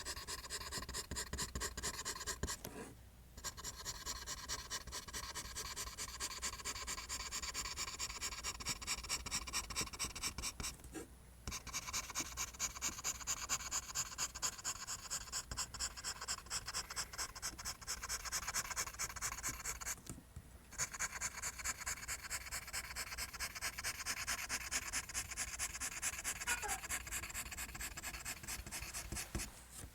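Pencil drawing lines on paper: quick, repeated scratching strokes, with short pauses about 3, 11 and 20 seconds in.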